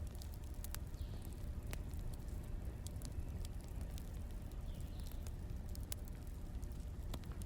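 Wood fire crackling, with sparse, irregular sharp pops over a steady low rumble.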